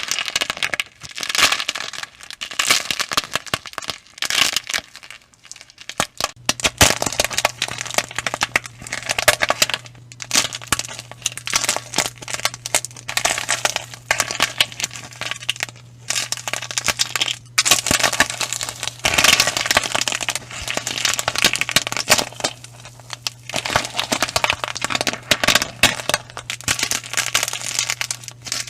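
Crunchy slime with a brittle, fragile outer shell being pressed and squished. It gives off dense, irregular crackling and crunching. A steady low hum joins about six seconds in.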